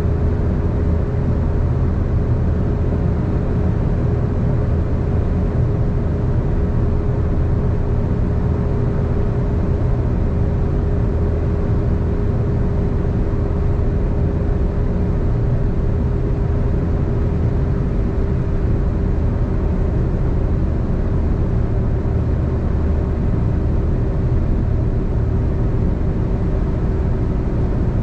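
A car travelling at steady highway speed: constant tyre and road noise with a low engine hum, and a faint steady whine that sinks slightly in pitch.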